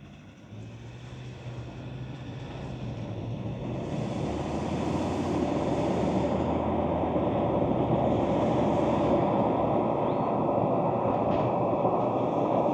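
Ford Ranger Wildtrak pickup on the move, its engine and tyre and road noise growing louder over the first few seconds as it gathers speed, then holding steady. The low engine note drops about four seconds in and climbs again near the end.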